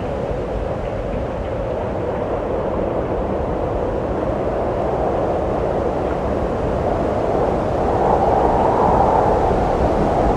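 Wind blowing steadily as a low rushing noise, swelling louder about eight seconds in.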